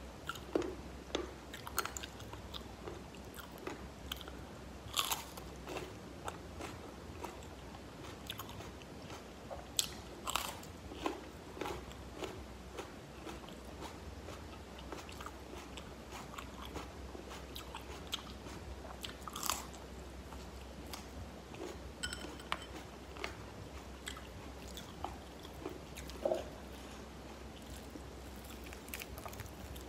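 Close-up eating of fried chicken: irregular crisp crunches and chewing, with a few louder bites, over a steady low hum.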